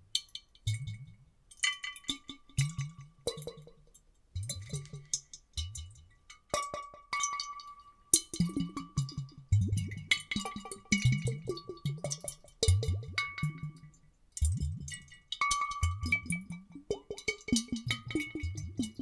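Water sloshing and glugging inside glass bottles, in repeated short bursts about a second apart, with clinks and a faint ringing tone over them, layered into an underwater effect.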